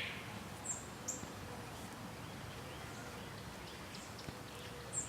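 A few short, high bird chirps, faint, about a second in and again near the end, over quiet background noise.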